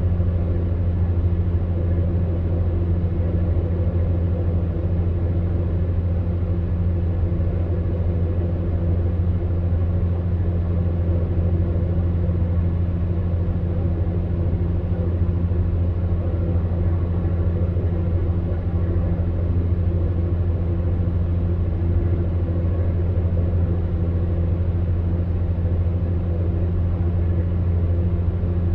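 Electric fan heater running steadily: a constant low hum from the fan motor with an even airy whoosh of blown air.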